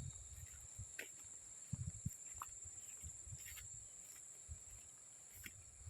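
Insects calling in the background as one steady, faint, high-pitched drone, with a few soft thuds and clicks scattered through it.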